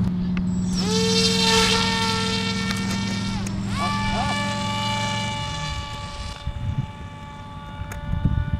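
Electric RC model plane motor and propeller whining: the pitch rises as the throttle opens, then holds steady, and rises again to a higher steady whine about four seconds in. A low steady hum underneath stops about five seconds in.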